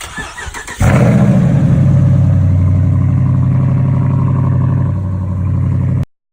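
Dodge Hemi V8 cranking on the starter for under a second, then firing up and settling into a loud, steady idle through Dynomax Race Bullet mini mufflers with the mid muffler deleted. The sound cuts off abruptly near the end.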